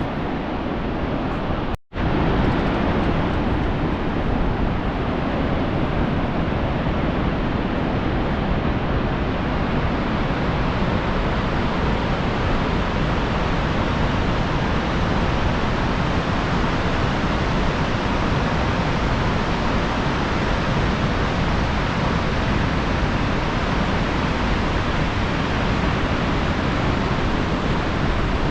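Steady, even rush of a large waterfall falling. The sound breaks off for an instant about two seconds in.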